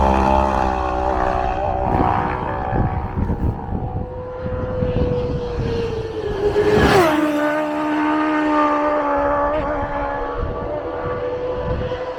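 Racing motorcycle at full speed on a road course. Its engine note holds high as it approaches, then drops sharply in pitch as it flashes past about seven seconds in, and carries on lower as it goes away. Wind rumble on the microphone runs underneath.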